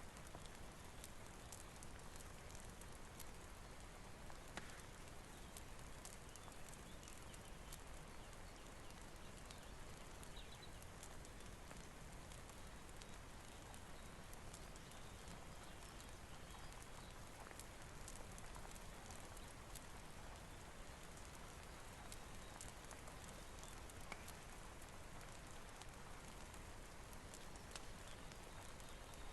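Faint steady rain mixed with a crackling fireplace: an even hiss with scattered small pops and ticks.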